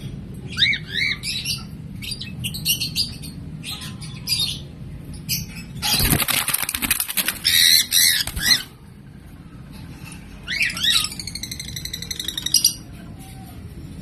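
Pet lovebirds making shrill, arching chirps. A loud rustling flurry of wing flaps comes in the middle. Later there is a rapid, stuttering squawk.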